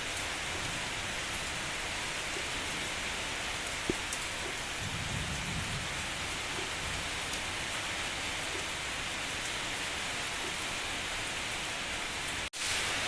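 Steady rain falling, with a brief low rumble about five seconds in. The sound cuts out for an instant near the end.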